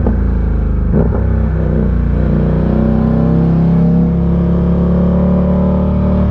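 Ducati Diavel 1260's L-twin engine pulling uphill under load. The note breaks briefly twice near the start, then rises and holds steady.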